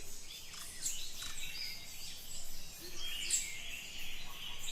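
Natural ambience full of birds chirping and calling, many short high calls overlapping over a faint steady hiss.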